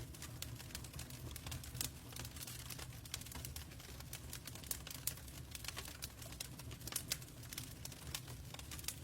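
Wood fire burning in a fireplace: irregular crackles and small snaps over a low, steady rumble, with a sharper pop about two seconds in and a couple more near seven seconds.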